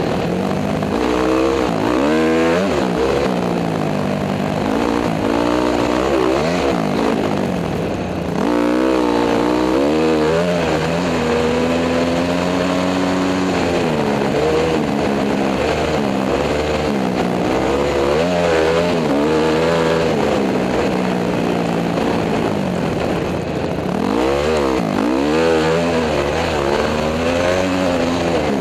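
Honda CRF250 dirt bike's single-cylinder four-stroke engine revving up and down as it is ridden, its pitch climbing and dropping every few seconds with throttle and gear changes, heard from a helmet-mounted camera.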